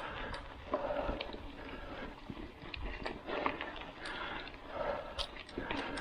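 A mountain biker breathing hard and rhythmically, about one breath a second, over low rumble and scattered small clicks and rattles from the bike.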